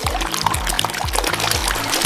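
Background music with a steady, repeating bass line, and over it a liquid pouring and trickling that starts abruptly at the beginning.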